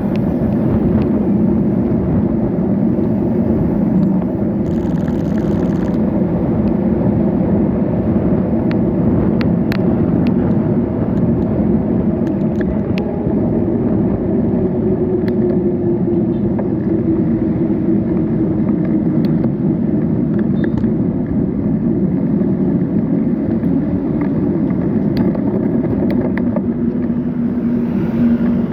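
Steady low rumble of road traffic and ride noise heard from a moving bicycle. Around the middle, a vehicle's engine note rises and then falls, with scattered light clicks throughout.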